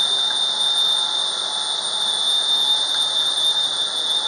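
Steady running noise of a motor yacht underway at speed on its twin MAN 800 hp diesel inboards, with a steady high whine on top of an even rushing noise.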